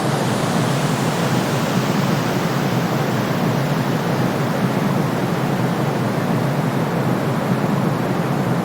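Steady, unchanging white-noise sleep sound, a constant rushing hiss weighted toward the low-middle range with no deep rumble beneath it.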